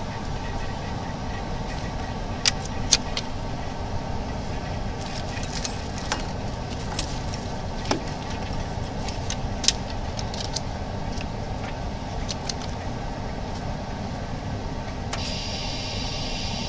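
Screen-laminating machine running through its timed laminating cycle, a steady mechanical hum with scattered sharp clicks. A higher hiss starts near the end.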